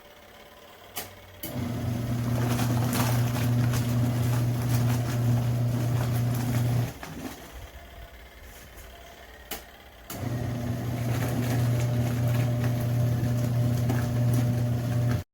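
Auertech portable twin-tub washing machine's motor humming steadily for about five seconds, stopping for about three, then starting up again, with a light click just before each run. The on-off pattern is typical of the wash tub's agitator running in alternating stretches.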